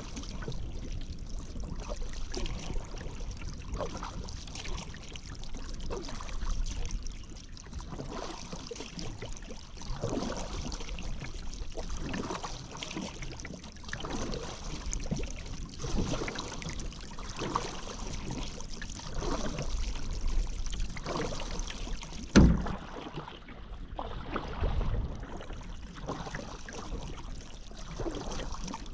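Paddle strokes dipping into river water, with splashes and drips repeating every second or two. A single sharp knock, the loudest sound, comes about two-thirds of the way through.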